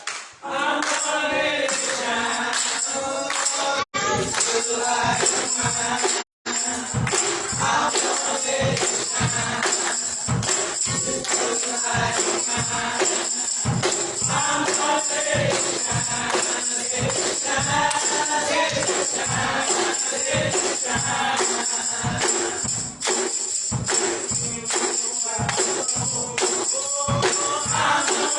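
Gospel music: a choir singing over a tambourine beaten in a steady fast rhythm. The sound cuts out completely twice, briefly, about 4 and 6 seconds in.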